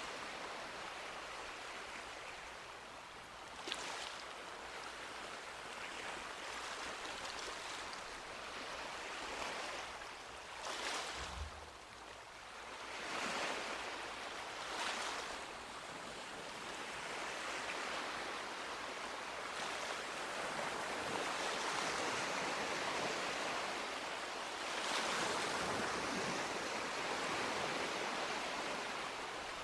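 Sea waves breaking and washing ashore: a steady hiss of surf that swells in uneven surges every few seconds.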